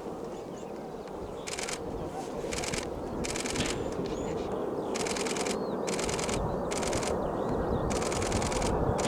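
A camera shutter firing in short rapid bursts, about eight times, over the steady rush of a jet aircraft's engines that grows louder.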